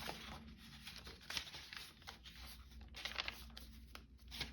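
Paper sheets rustling and crinkling as folded journal signatures are handled and placed, with a few sharper paper snaps along the way.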